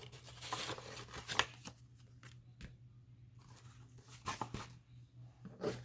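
Paper ephemera and cards being handled and shuffled: soft, scattered rustles and light taps, over a faint steady hum.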